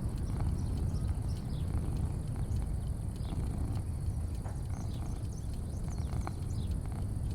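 Outdoor ambience: a steady low rumble, with scattered short bird chirps and a steady high insect drone.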